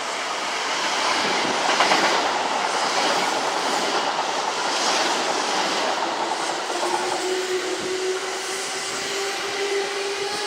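Kintetsu electric train running past on the rails, wheels clattering over the rail joints, building up over the first two seconds. About two-thirds of the way in a steady, slightly rising whine joins the clatter.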